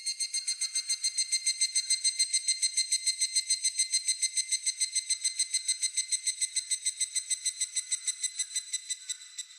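Higurashi (evening cicada) calling: a high, rapid, even run of about nine pulses a second that swells over the first couple of seconds, holds, and fades away near the end.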